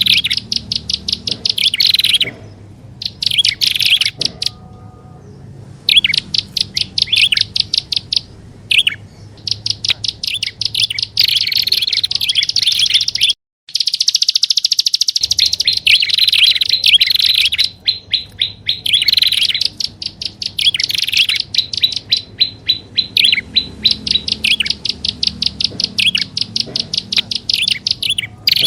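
Prinias (prenjak) calling on a bird-lure recording: rapid trains of sharp, chattering notes in repeated bursts of a second or two, with a brief gap just past the middle.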